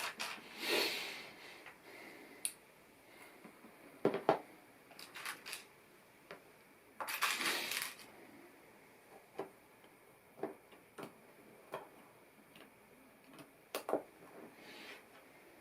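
Small plastic LEGO pieces clicking and clattering as they are handled, in scattered single knocks, with a denser burst lasting about a second about seven seconds in.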